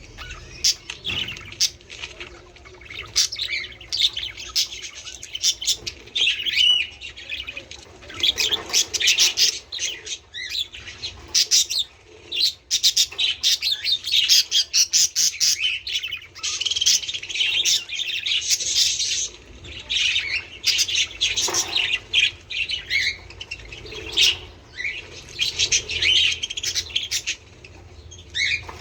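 A flock of budgerigars chattering: dense, fast chirps, warbles and squawks that run almost without a break.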